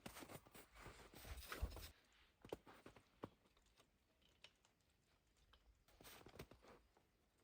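Faint rustling and crackling with quick clicks and a low thump for about two seconds, then near silence broken by a few sparse light clicks.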